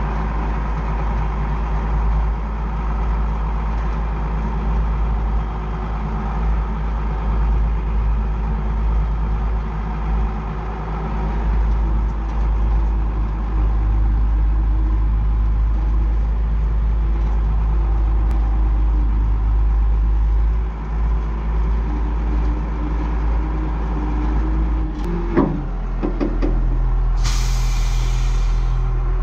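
Kubota tractor's diesel engine running steadily. About 25 seconds in its note changes with a few clicks, and near the end a short hiss of released air.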